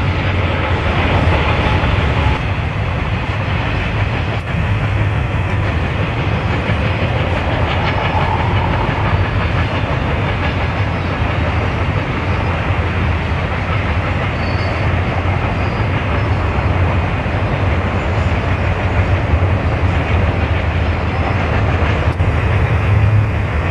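Canadian Pacific double-stack container freight train rolling along the rails, a steady low rumble of diesel locomotives and freight cars. The sound shifts abruptly a few times.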